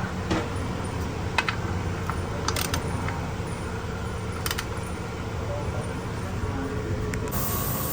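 A few sharp metallic clicks and clinks, spaced irregularly, over a steady low hum.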